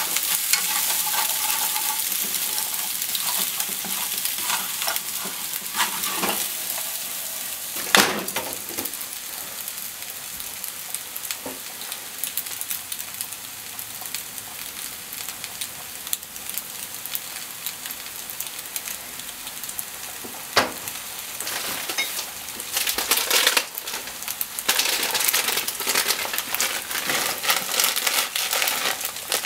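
Macaroni, onion and ham sizzling steadily in a frying pan, with a spatula scraping and stirring through it for the first few seconds. Two sharp knocks of a utensil on the pan come apart, and near the end a plastic packet crinkles over the pan.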